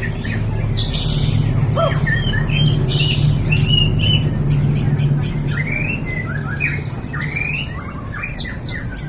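White-rumped shama (murai batu) singing: a varied run of quick whistled notes that slide up and down, with two short harsh rasping notes about one and three seconds in. A steady low hum runs underneath.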